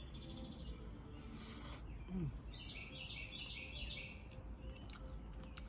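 Songbirds singing over steady outdoor background noise: a buzzy high trill at the start, then a quick run of repeated chirps in the middle. A brief low falling sound about two seconds in is the loudest moment.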